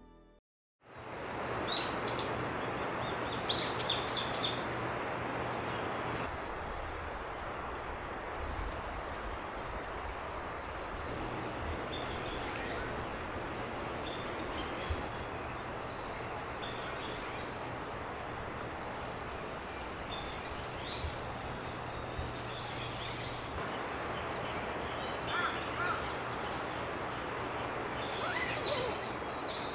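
Several birds chirping and whistling over a steady, even rushing background, one of them repeating a short high note over and over from several seconds in. The sound fades in after a moment of silence at the start.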